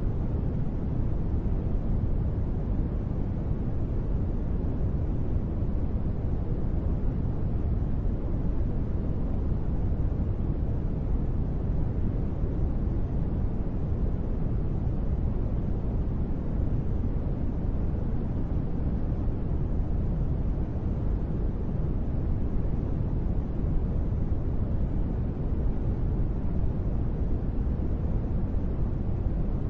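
Steady rain ambience used as white noise: an even, deep hiss with no distinct drops, thunder or changes.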